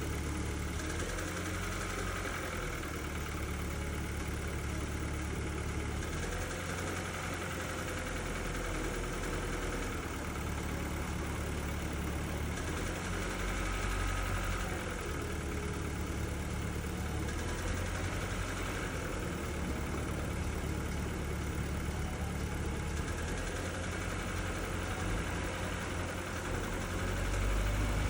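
Kia Ceed's G4FG 1.6-litre four-cylinder petrol engine idling and being revved gently several times, with a knock that comes when the accelerator is pressed; the owner does not know its cause.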